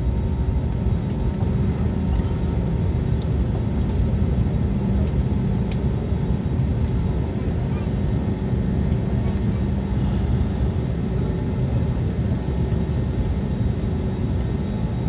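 Airbus A320neo cabin noise on the ground before takeoff: a steady, even low rumble of the running engines and airframe, with faint scattered clicks.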